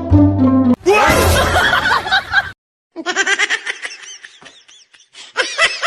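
Music ends about a second in and a loud, noisy burst of sound follows. After a short gap comes a run of quick, high-pitched laughter in short repeated syllables, getting louder near the end.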